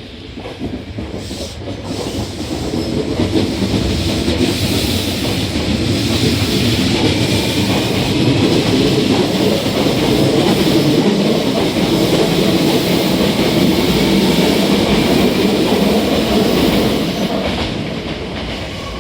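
Hankyu 1000 series electric commuter train pulling out, its wheels rolling and clattering on the rails. It grows louder over the first few seconds as it gathers speed past, with a faint rising whine, and eases off near the end.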